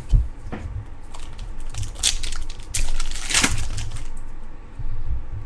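Crinkling and rustling of trading-card packs and cards being handled, with louder crackles about two to three and a half seconds in.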